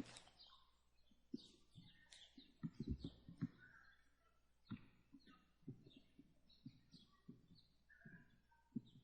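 Faint footsteps, about two a second, with a few faint bird chirps.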